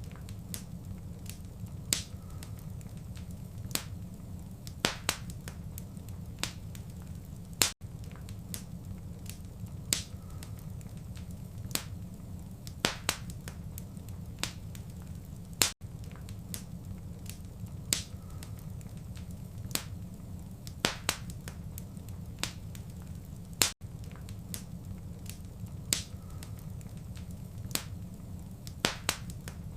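Wood fire crackling in a fireplace: sharp, irregular pops and snaps over a steady low rumble, with a brief dropout about every eight seconds.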